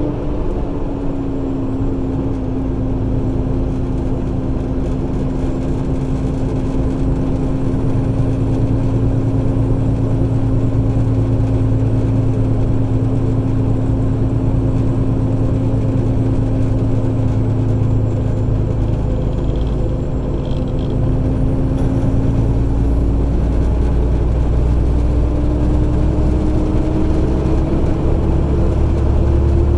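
Semi truck's diesel engine running steadily under load on a steep mountain grade, with a steady whine whose pitch dips slightly early and rises again near the end.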